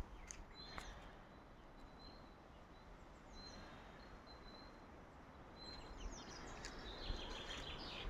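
Faint songbirds calling in woodland: a thin, high whistled note repeats about once a second, and a burst of twittering chirps comes near the end.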